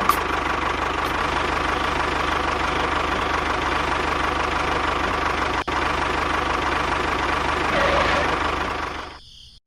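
Engine idling steadily, with a brief dropout just before six seconds in, then fading out about nine seconds in.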